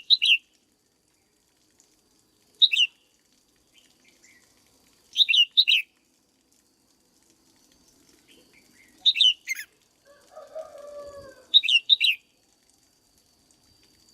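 Red-whiskered bulbul singing short, bright phrases of two or three quick notes, repeated every few seconds, with a lower, rougher call about ten seconds in.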